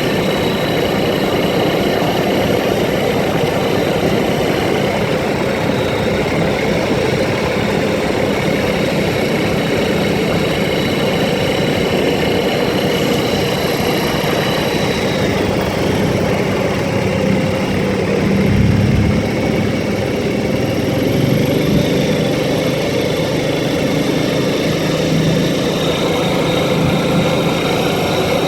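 ATV engine running steadily while riding, with a dense, continuous drone. The engine note drops for a few seconds past the middle and then picks back up.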